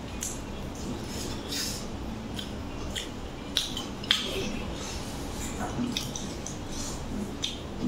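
Mukbang eating sounds of a man eating chicken and rice by hand: chewing and wet mouth smacks in an irregular run of short clicks.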